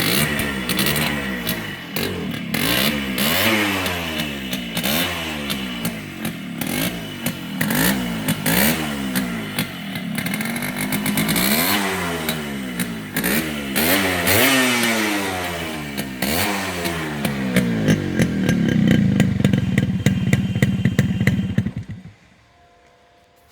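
Yamaha RX100's single-cylinder two-stroke engine running, its throttle blipped up and down again and again, then held steady for a few seconds before the engine cuts off near the end.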